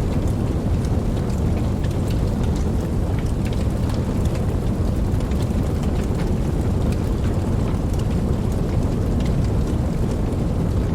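Steady rain, a heavy low rumbling wash with many small drop ticks scattered over it.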